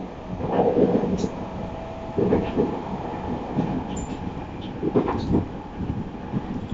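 Running noise heard inside a JR East 209 series (3100 subseries) commuter car travelling at speed: a steady rumble of wheels on the rails, with a few louder, short rattling surges about half a second in, at about two seconds and near five seconds.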